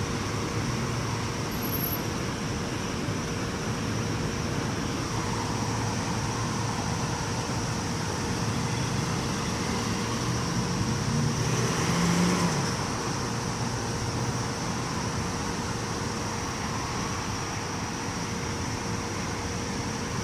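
Road traffic noise, with a vehicle passing about twelve seconds in, growing louder and then fading.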